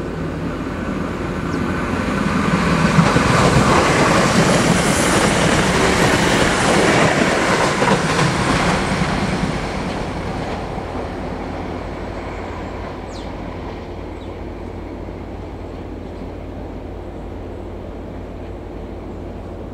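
NIR 3000 Class diesel multiple unit passing through at speed, its engine and wheels on the rails loudest a few seconds in, then fading steadily as it draws away. A steady low hum runs underneath.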